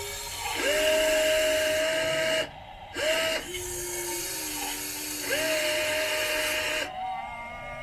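Small electric motor of an RC model excavator whining in several runs of one to two seconds, each starting with a brief rise in pitch and ending abruptly as the controls are worked, with a lower, steadier whine in the middle.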